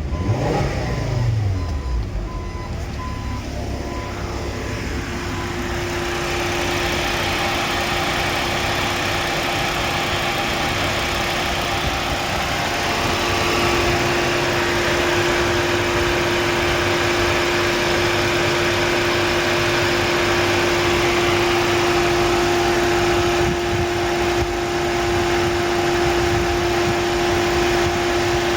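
An engine on test: it revs briefly just after starting and settles within a couple of seconds, then runs steadily with a constant whining tone over the running noise.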